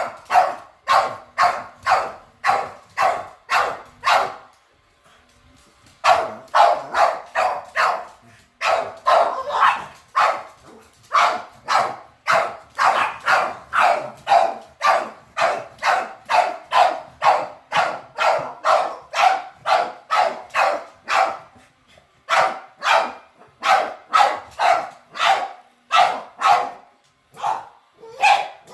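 Boston terrier barking steadily and repetitively at about two barks a second, with a pause of about two seconds early on and short breaks near the end: the alarm barking of a dog at an unfamiliar robot vacuum.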